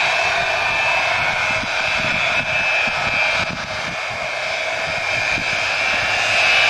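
Pratt & Whitney JT3D turbofan engines of a four-engined jetliner running, a loud roar with a steady high whine. It eases off slightly midway and grows louder again near the end.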